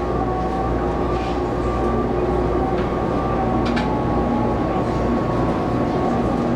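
Taiwan Railways local train running, heard from inside the carriage: a steady rumble of wheels on track under a steady whine with a slightly wavering pitch, and a couple of faint clicks.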